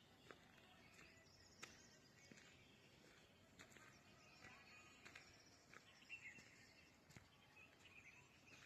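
Near silence: faint outdoor background with scattered soft clicks and a few faint chirps.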